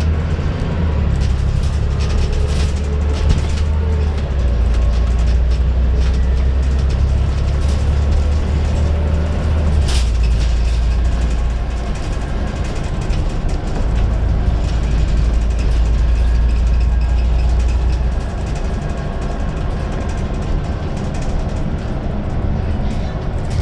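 Scania N94UD double-decker bus running, with its engine and ZF automatic gearbox working. The low engine drone steps up and down several times, and there is a single sharp click about ten seconds in.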